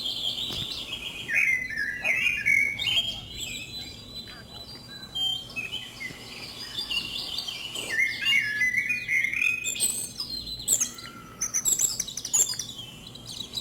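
Birds chirping in runs of short, quick high notes, busiest about a second in and again about eight seconds in.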